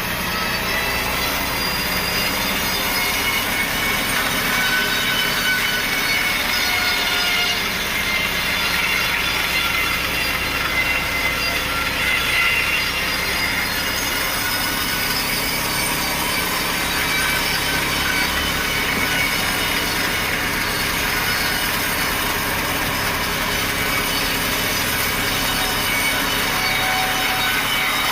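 Sawmill saw cutting steadily through a log, a continuous sawing noise with a high whine from the blade.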